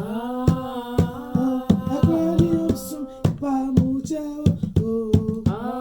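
A voice singing a chant in long, sliding held notes over a steady drum beat of about three strikes a second.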